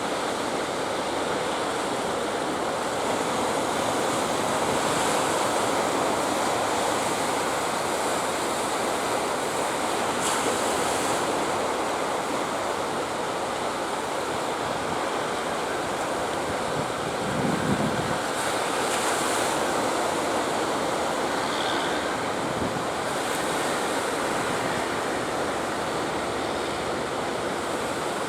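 Steady sea surf and waves breaking, with strong wind buffeting the microphone; a brief louder low surge comes about two-thirds of the way through.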